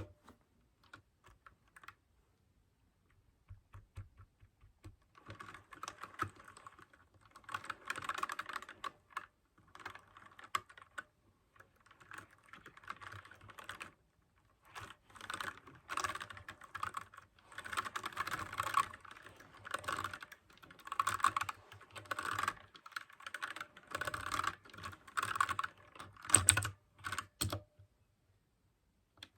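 Blue-switch mechanical keyboard being typed on: a few scattered clicky keystrokes at first, then quick bursts of fast typing broken by short pauses, with a few harder strokes near the end.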